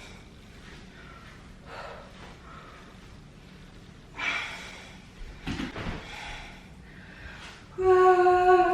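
A person breathing hard after a workout, with a few soft thuds of movement on the floor. Near the end a loud, steady, single-pitched tone starts and holds for about a second.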